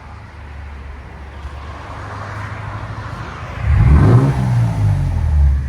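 Exhaust of a 2023 Toyota Tundra's 3.4L twin-turbo V6 through a CARVEN R-Series muffler, with the stock muffler cut off and the rear resonator kept. It idles steadily, then is revved hard about three and a half seconds in, the revs rising and falling with a low growl.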